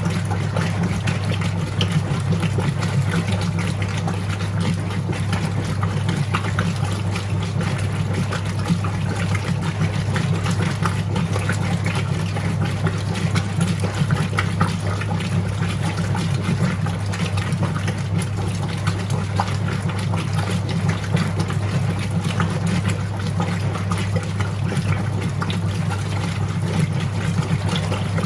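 Whirlpool 3RLSQ8033SWD top-loading washing machine running, a steady motor hum with water sloshing in the tub.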